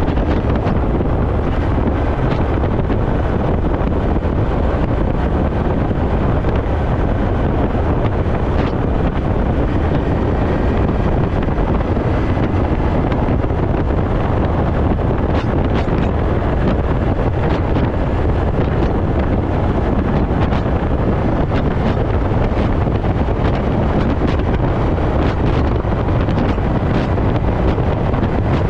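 Steady wind rush on the microphone over the running engine of a Honda Dax 125 with a Takegawa normal-look sport muffler, as heard while riding.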